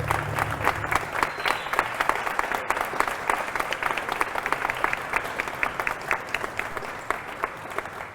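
Audience applauding, dense clapping that slowly fades toward the end. A low bass line of music runs under it for about the first second, then stops.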